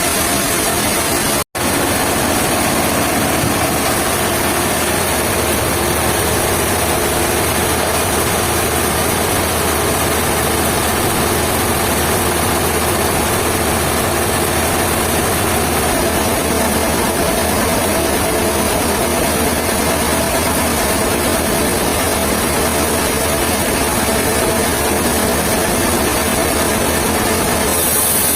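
An engine running steadily at a constant speed. It cuts out for an instant about a second and a half in.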